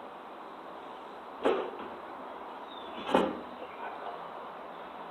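Two short knocks about one and a half seconds apart, over a steady background hiss.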